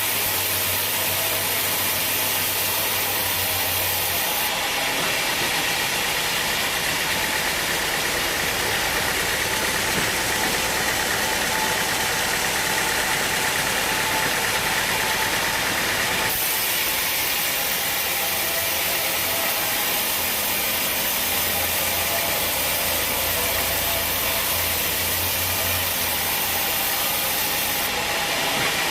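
Sawmill machinery running steadily: a constant engine-like drone with a hiss over it, its tone shifting a little about four seconds in and again about halfway through.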